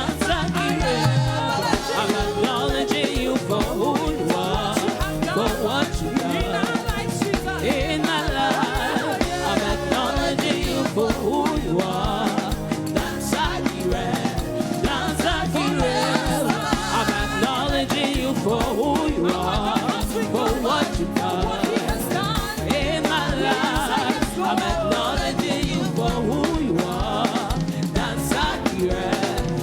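Live gospel praise-and-worship music: singing over a band with a steady beat.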